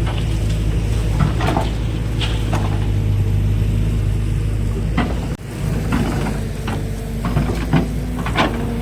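Kobelco excavator's diesel engine running steadily under load, with scattered knocks and clanks of the bucket and material during loading. The sound briefly drops out about five seconds in.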